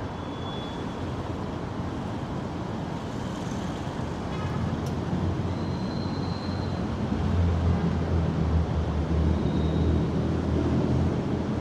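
City road traffic heard from a moving motorcycle: a steady rush of engines and tyre noise, with a low engine drone that grows louder about seven seconds in.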